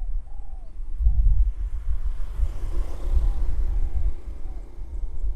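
Wind buffeting the microphone in uneven gusts, with a rushing noise that swells about halfway through and fades again, and faint repeated bird calls in the background.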